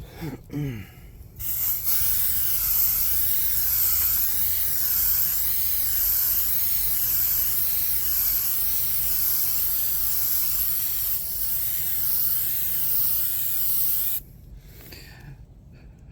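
Aerosol spray can spraying primer in one long continuous hiss. The hiss starts about a second and a half in, wavers regularly as the spray is swept back and forth, and cuts off shortly before the end.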